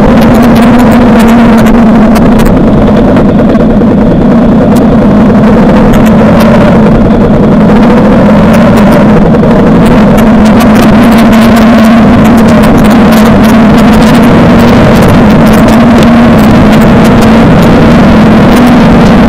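Suzuki DL650 V-Strom's V-twin engine running loud at a steady pitch, with many short clicks and knocks throughout.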